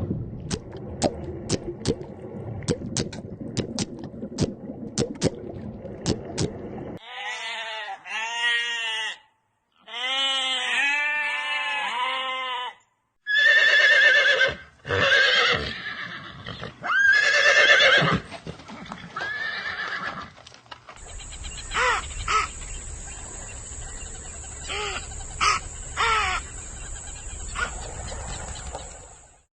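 Horses neighing and whinnying: several separate calls, each a second or two long and wavering up and down in pitch, after a run of sharp, evenly repeated clicks in the first seven seconds.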